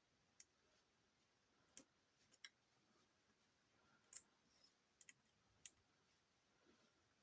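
Near silence, broken by a few faint, scattered clicks and taps at irregular intervals.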